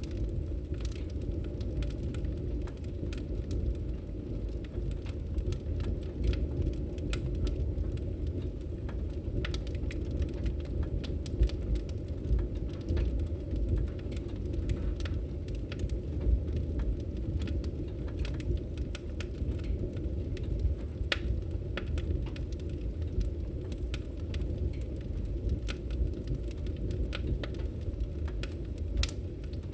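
Wood fire crackling in a fireplace: irregular pops and snaps over a steady low rumble.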